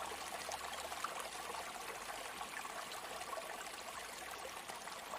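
Sea water washing in a steady, continuous rush with fine fizzing and crackling, without a clear rise and fall of a breaking wave.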